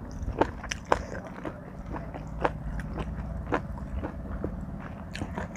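Close-up eating sounds of a person chewing spicy Thai seafood salad: irregular crunches and wet clicks of the mouth, about a dozen in a few seconds, over a steady low hum.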